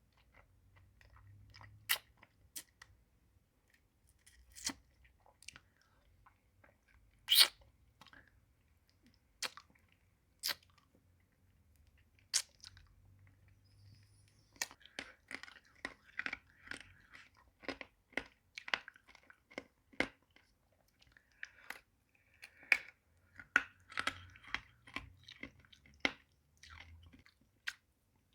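Close-miked mouth sounds of eating a hard-candy pacifier lollipop. Sparse, sharp clicks come first, then denser, wetter clicking and smacking from about halfway through.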